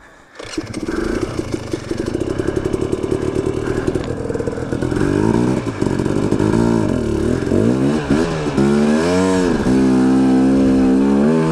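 Dirt bike engine running, revved up and down several times from about five seconds in, then held at a steady higher rev near the end.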